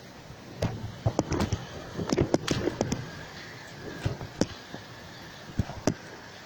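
Rain hissing steadily, with irregular sharp taps of water drops hitting a hard surface close by, bunched in the first half and a few more near the end.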